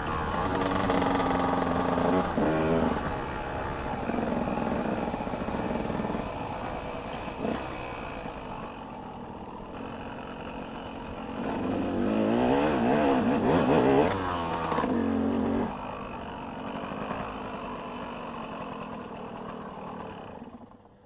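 Motocross dirt bikes racing on the track, engines revving up and down through the gears. The loudest bike passes close about two-thirds of the way through, its note wavering up and down, then the sound drops back to more distant engines.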